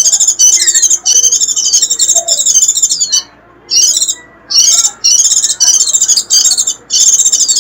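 White-eye (vành khuyên) giving its loud 'rít' chatter: long runs of rapid, high-pitched twittering broken by a few short pauses. It is the excited call played to lure wild white-eyes in.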